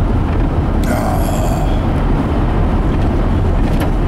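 Steady low rumble of road and engine noise inside a moving vehicle, with a brief hissing noise about a second in.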